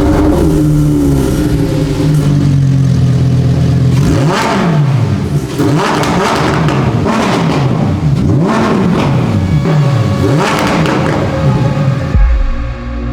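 Lamborghini Huracán STO's naturally aspirated 5.2-litre V10 being revved while stationary. After a rev, the engine settles back down over the first few seconds, then it is blipped repeatedly, each rev rising and falling in pitch. Near the end the engine gives way to music.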